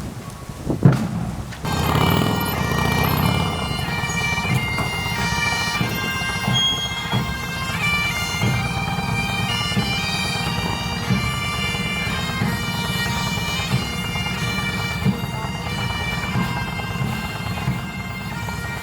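Bagpipes playing a tune over their steady drones, starting about two seconds in after a couple of knocks.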